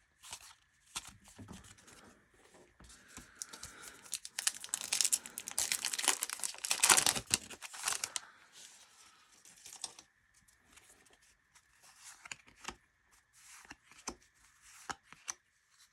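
Crinkling and tearing of a trading-card pack wrapper, loudest for a few seconds in the middle, among scattered clicks and rustles of cards being handled.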